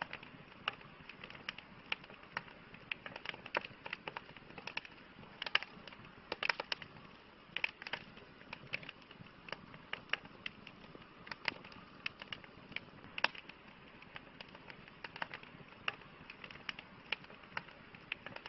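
Campfire burning wood, crackling and popping irregularly over a low hiss of flames, with a few louder pops.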